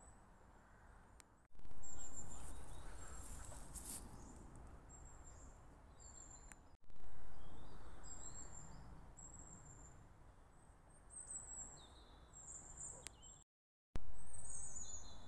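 Small birds chirping in woodland, short high calls repeated over a low outdoor rumble; the background jumps up sharply three times, with a brief dropout near the end.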